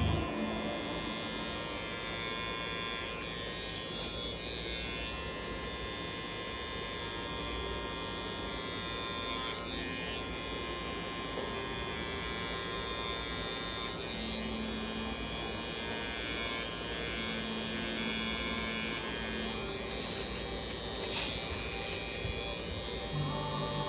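Electric tattoo machine running with a steady buzzing hum.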